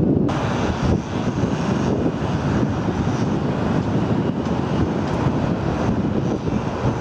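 Steady engine drone with a rushing noise over it, as from a motor vessel under way.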